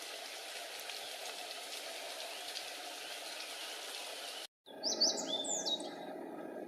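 A steady hiss with faint scattered bird chirps, then, after an abrupt cut, a wild songbird sings one short phrase of clear, high whistled notes lasting about a second.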